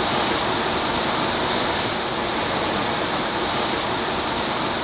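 Jet fighter engine noise: a steady, even rush of sound that swells slightly in the first second and then holds.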